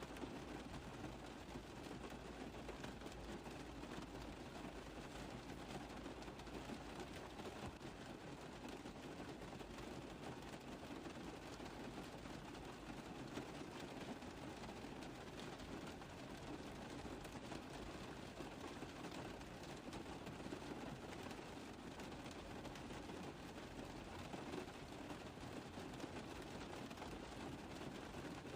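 Rain falling steadily on a car roof: a dense, even stream of small drop taps blending into a constant hiss.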